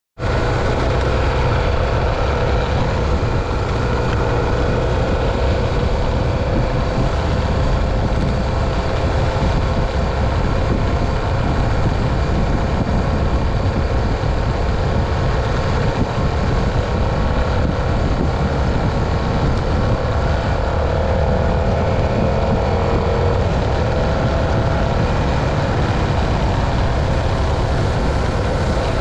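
Motorcycle engine running at a steady cruising speed on the open road, with heavy wind rush on the microphone.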